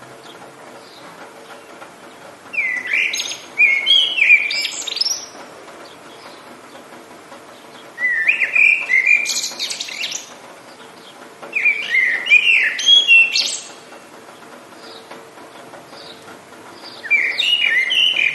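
A songbird singing four separate phrases of about two seconds each, a few seconds apart, over a faint steady hiss.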